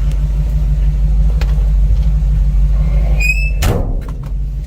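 Chevrolet ZZ4 350 V8 crate engine idling steadily, heard from inside the truck's cab. A short high squeak about three seconds in is followed by a sharp knock.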